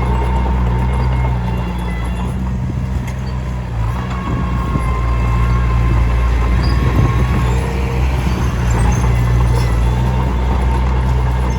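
Komatsu D21P bulldozer's diesel engine running steadily under load, with irregular clanking and scraping from the steel tracks and the blade working stone through the middle.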